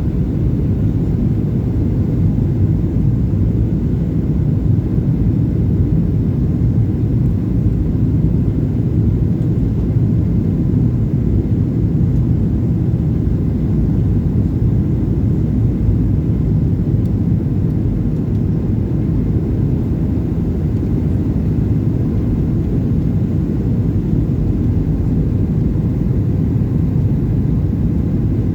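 Boeing 737-800 airliner heard from inside the passenger cabin in flight: a steady, even low rumble of engines and airflow, with no changes or sudden sounds.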